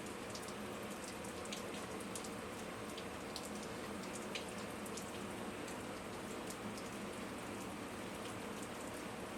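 Steady, faint patter of rain with scattered small drip-like ticks, over a low steady hum.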